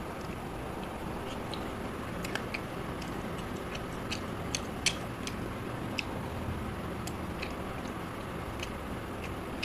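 Close-up eating sounds: a man chewing pieces of chicken curry, with irregular wet mouth clicks and smacks, the loudest about five seconds in, over a steady background noise.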